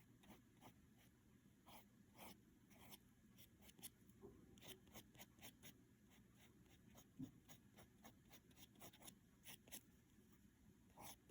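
Faint, irregular scratchy strokes of a paintbrush working acrylic paint across the painting surface.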